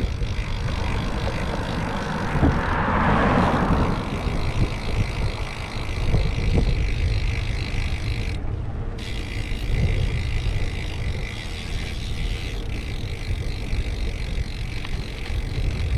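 Wind rumbling on a bike-mounted GoPro Hero 8 Black's microphone while riding along a road. A louder rush of noise swells and fades about three seconds in.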